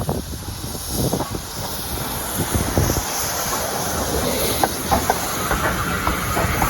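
A train running past on the rails, its wheels knocking and clicking over the rail joints, with a hiss that grows from about three seconds in.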